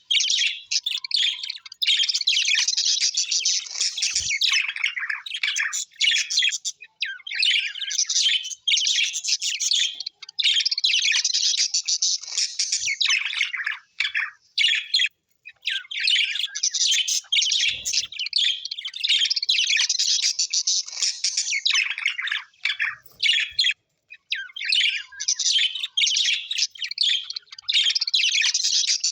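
Small parrots chattering: dense, busy chirping and squawks in long runs a few seconds each, broken by short pauses.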